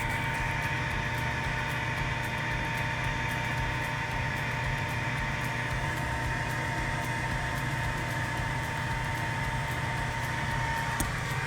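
Steady hiss with a low hum and a thin constant whine, typical of water-test spray equipment and its pump running.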